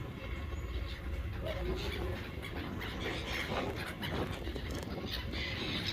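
Seagulls calling over a steady low rumble.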